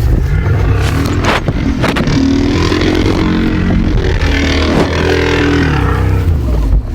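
Van engine running and revving, its pitch climbing and dropping several times, with a couple of sharp knocks in the first two seconds.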